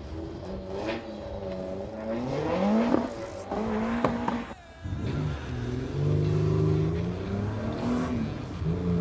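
V6 engine of a Mazda MX-5 accelerating, its pitch rising twice, with a brief drop about halfway through at a gear change, then pulling on steadily.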